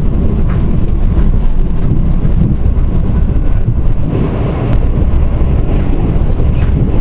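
Korail Mugunghwa-ho passenger train running at speed, heard from aboard: a steady, loud rumble of wheels on rails with scattered short clicks and rattles.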